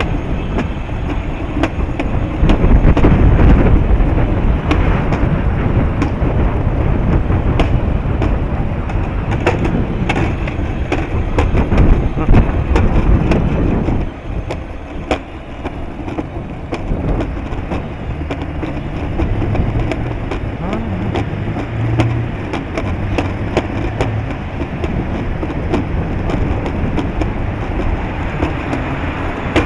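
Strong wind buffeting the microphone: a loud, gusty rumble with crackling, easing about halfway through.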